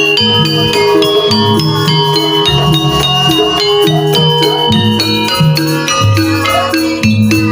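Javanese gamelan-style music accompanying a jaranan (jaran kepang) horse-dance troupe: metal-keyed percussion plays a steady, stepping melody of struck notes over low, held tones.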